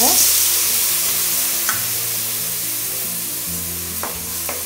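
Wet ground coconut paste sizzling as it hits hot coconut oil in an aluminium kadai, loudest at first and slowly dying down. A few light knocks of a spatula stirring it come about a second and a half in and near the end.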